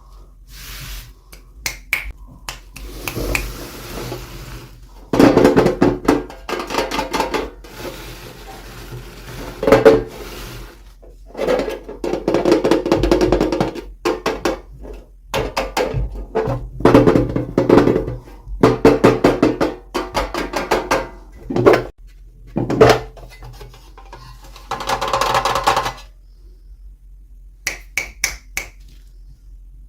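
Plastic toy packaging and small toy pieces being handled and opened: irregular bursts of crinkling, clicking and rattling, with short pauses between them.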